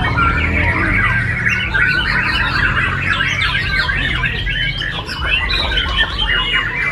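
Dense chorus of many caged songbirds singing at once: overlapping chirps, trills and rapid whistled glides, over a steady low hum.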